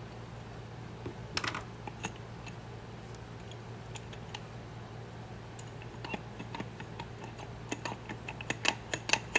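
Small metallic clicks and taps as the suction chamber of an SU H1 carburetor is unscrewed and handled, to get at a piston that sticks in it. There is a short cluster of clicks a little over a second in, and the clicks come thicker and louder near the end, over a steady low hum.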